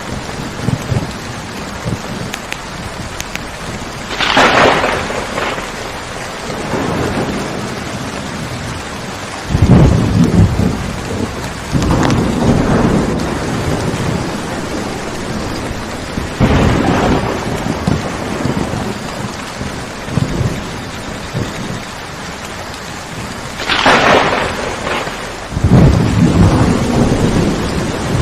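Steady heavy rain falling, with thunder rumbling several times, each rumble lasting a second or two. Two sharper, higher-pitched cracks come about four seconds in and near the end.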